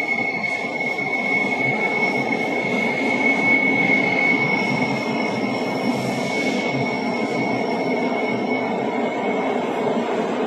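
Bernina Railway train rolling by with a steady high-pitched wheel squeal over the rumble of wheels on rail, loudest a few seconds in. The squeal is typical of wheel flanges grinding on a tight curve.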